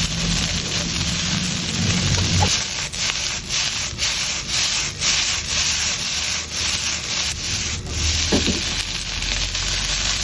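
Egg fried rice frying in a pan with a steady sizzle, while a spatula scrapes and turns it in regular strokes about twice a second through the middle.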